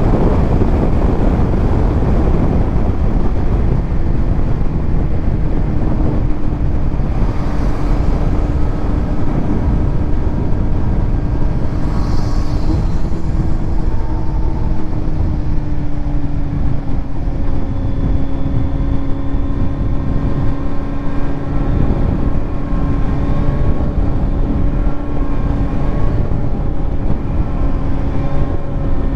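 Kawasaki Z900 inline-four with a titanium Arrow exhaust running steadily under way, with a rush of wind noise. A heavy rush dominates the first few seconds, then the engine settles into a steady note that dips slightly in pitch partway through.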